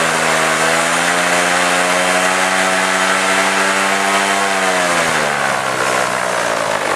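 Paramotor engine and propeller running at a steady speed, then the revs fall away about two-thirds of the way through as the throttle is eased back.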